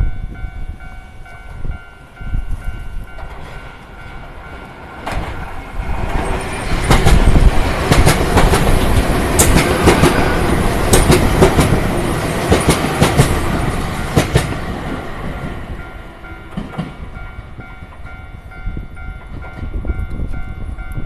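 Japanese level-crossing warning bell ringing in a steady, rapid repeating pattern while a Keio 1000 series electric train runs over the crossing. The train's wheels clatter over the rail joints; its noise builds about five seconds in, is loudest through the middle and fades away after about fifteen seconds, while the bell keeps ringing.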